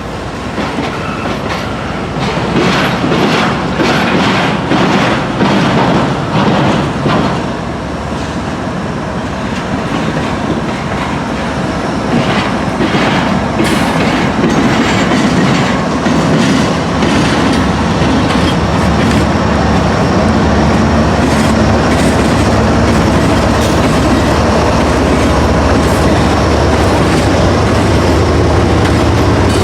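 Freight cars of a CSX intermodal train rolling slowly in reverse across a railroad diamond, their wheels clacking over the crossing, with some wheel squeal. In the second half a steady low diesel locomotive drone builds and becomes the loudest sound.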